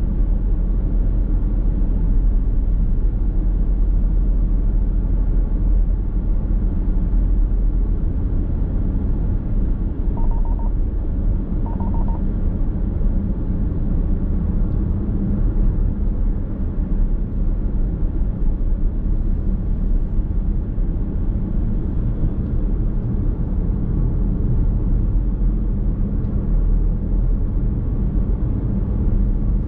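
Steady low rumble of road and running noise heard from inside a moving car's cabin. About ten seconds in, two short electronic beeps sound a second and a half apart.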